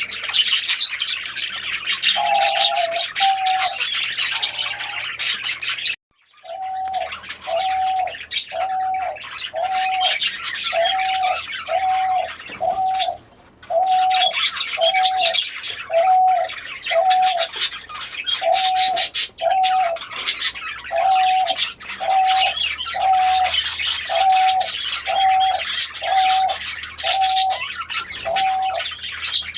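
Pigeons and small birds calling together: dense high chirping throughout, with a short call repeated steadily about once a second and pigeon cooing. The sound cuts out briefly about six seconds in, then resumes.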